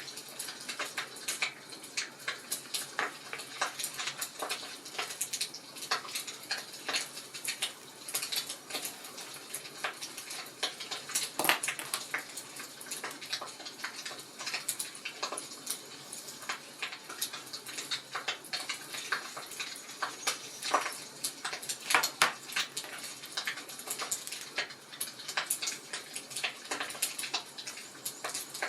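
Wood fire crackling: many irregular sharp pops and snaps over a soft hiss, with a few louder pops partway through.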